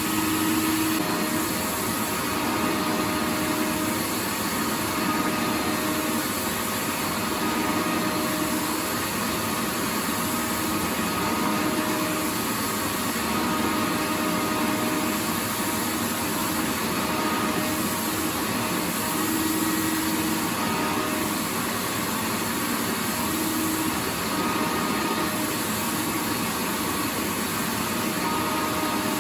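Vacuum cleaner running steadily: a continuous hiss across a wide range, with a steady hum of a few tones underneath that swells and fades slightly.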